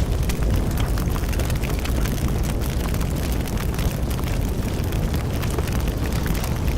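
Bonfire burning: a steady low rumble of flames with frequent sharp crackles and pops of burning wood.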